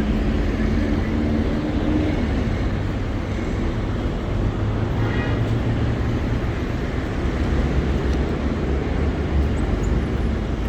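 Street ambience in the rain: a steady low rumble of traffic under a constant hiss, with faint voices in the background.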